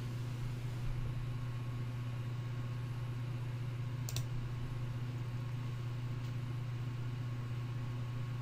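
Steady low electrical hum and room noise with no speech, and a single faint click about four seconds in.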